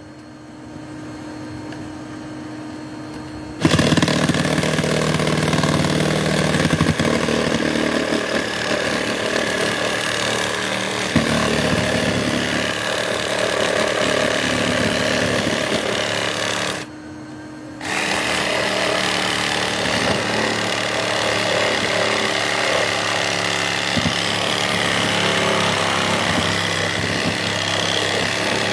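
A handheld power tool starts about four seconds in and runs steadily. It stops for about a second just past the middle, then runs again. A steady lower hum continues underneath throughout.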